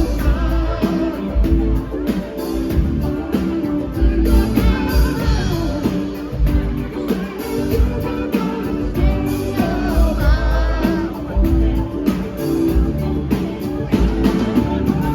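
Live rock band playing with a lead vocal over a heavy bass and drum beat, heard as an amplified concert mix.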